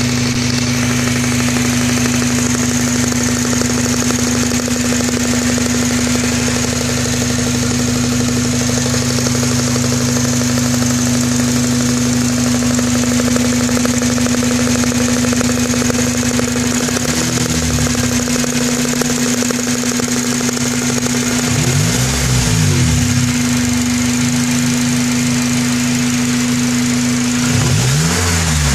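Honda K24A2 2.4-litre inline-four idling with a loud valvetrain clicking, which began right after a calibration change was uploaded while the engine was running. The engine is revved briefly three times in the second half, each rev rising and falling back to idle.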